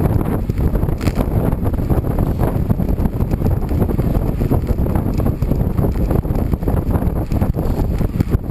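Wind blowing across the microphone of a bike-mounted or handheld camera while riding a bicycle at speed: a loud, fluttering low noise with no pauses.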